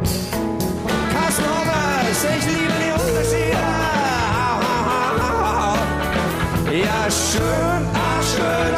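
Live band music during an instrumental solo: a melodic line that bends up and down in pitch over a steady low accompaniment.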